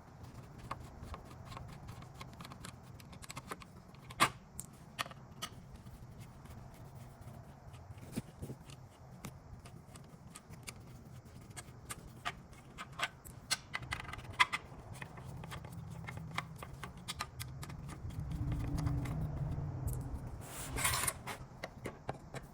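Scattered small metal clicks and taps of a screwdriver working rusty, damaged screws out of an old saw's handle, with one louder knock about four seconds in and a short noisy burst near the end.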